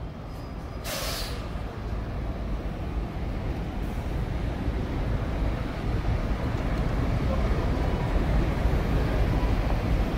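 Low rumble of a train at a station, growing steadily louder, with a short hiss of released air, like an air brake, about a second in.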